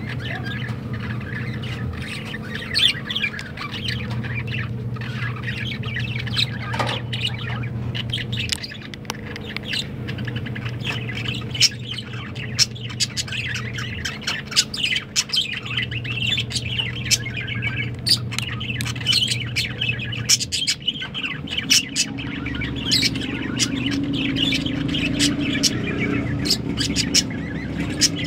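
Lovebirds chattering with rapid, sharp squawks and chirps, many a second, over a low hum that comes and goes.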